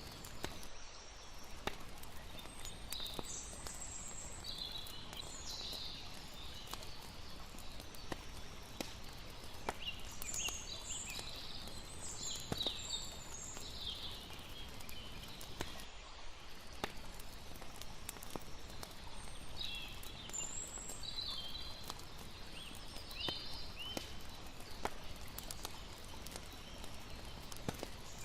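Layered nature ambience: a campfire crackling with scattered sharp pops, over a steady soft hiss of water. Clusters of short, high chirping calls come and go.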